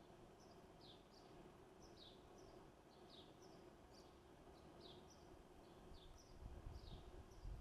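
Faint bird chirping: pairs of a short high note and a quick falling note, repeating about once a second. A low rumble swells near the end.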